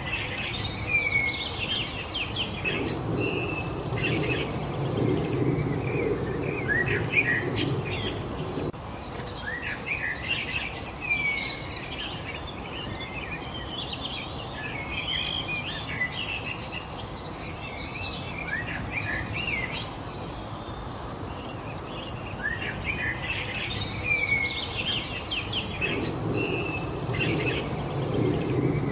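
Several songbirds chirping and singing, many short calls and whistles overlapping without pause. Under them a low background noise stops abruptly about eight seconds in and comes back near the end.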